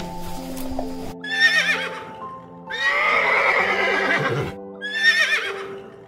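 A horse whinnying three times, a short wavering whinny, a longer one in the middle, then another short one, over soft background music with sustained notes.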